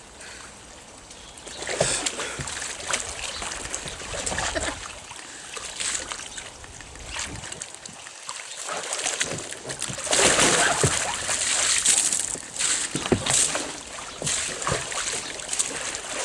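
Water splashing and sloshing around a kayak and its paddler, in irregular splashes that are heaviest about ten seconds in.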